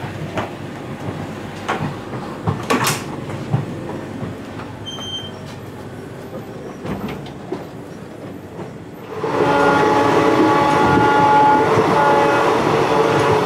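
Indian Railways passenger coach running, heard through its open door, the wheels clattering on the rails with occasional knocks. About nine seconds in, a much louder sustained sound made of several steady tones sets in and holds.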